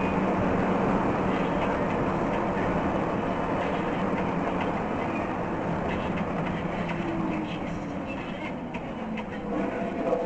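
Steady vehicle noise, a dense rushing rumble with no distinct impacts, slowly fading over the later seconds.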